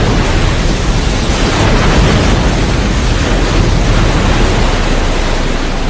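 Loud, steady roar of rumbling noise from an airliner crash and its aftermath in a film sound mix.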